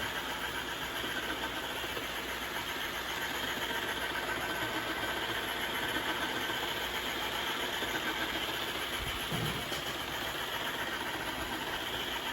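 Ecovacs Deebot T8+ robot vacuum running with its oscillating Pro mopping attachment: a steady, loud mechanical buzz and hum from the vibrating mop.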